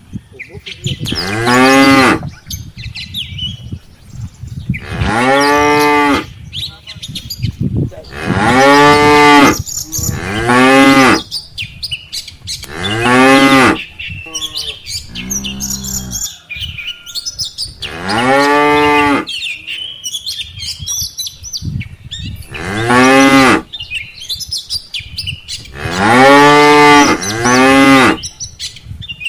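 A herd of cattle mooing again and again: about eight loud, drawn-out moos, each rising and falling in pitch, with quieter moos from other cows in between.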